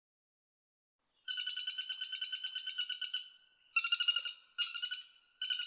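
Woodpecker calling in rapid runs of repeated notes, about eight a second. The calls begin over a second in and come in four runs with short gaps between them.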